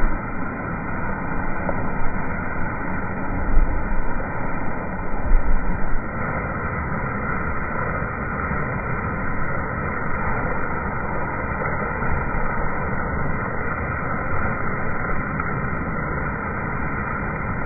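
Heavy rain falling, heard as a steady, muffled rushing noise, with a few louder low rumbles in the first six seconds.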